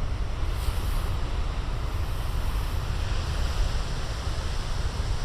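Big ocean surf breaking and washing ashore, with heavy wind rumble on the microphone. The hiss of the surf wash swells about three seconds in.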